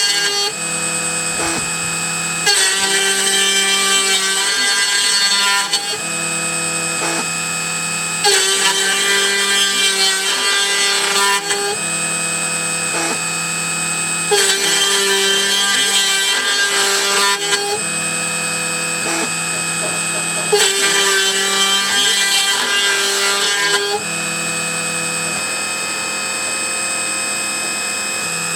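Snapmaker 2.0 A350 CNC spindle running with a steady whine while the bit mills the part in repeated passes: a louder, rougher cutting sound for about three seconds, roughly every six seconds, with quieter spindle running in between.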